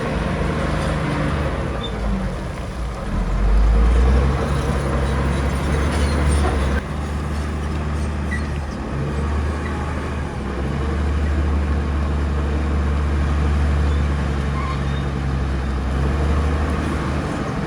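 Heavy diesel construction machinery running, a deep steady engine hum with a louder stretch about three to four seconds in.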